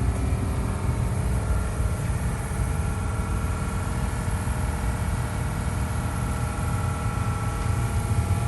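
An engine running steadily at a constant speed, a low rumble with a steady hum over it that does not change.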